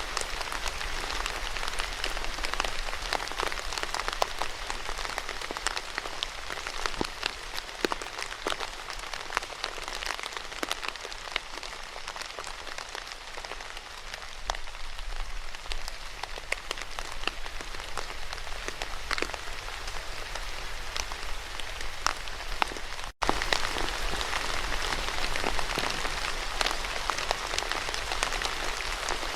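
Steady rain falling on a surface, a dense patter of many individual drops. The sound cuts out for a split second about three-quarters of the way through and then carries on unchanged.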